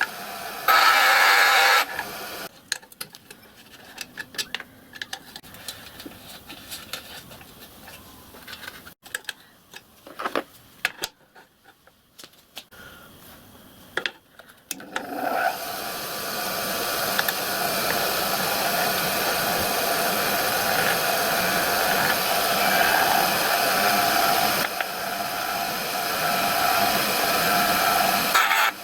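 Scattered clicks and knocks of metal being handled, then about halfway through a workshop power tool starts and runs steadily, a constant machine hum with a few steady tones.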